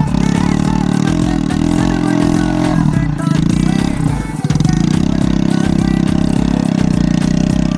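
Hero Splendor motorcycle's single-cylinder four-stroke engine running steadily, with a brief dip in level about four seconds in.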